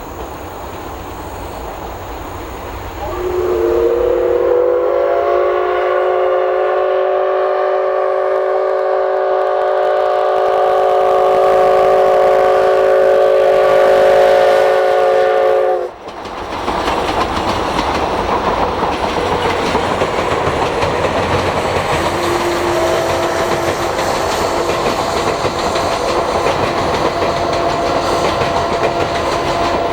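Steam locomotive C57 180's whistle sounding one long blast of about twelve seconds, several tones held together, cut off abruptly. Then the noise of the steam train running on the rails.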